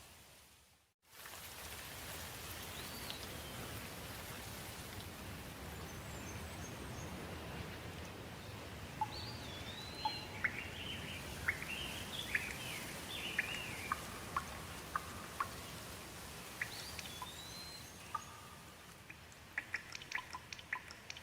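Steady rain falling, with birds chirping now and then over it, most often in the middle. The sound dips out and comes back about a second in, and near the end quick drops of water drip one after another.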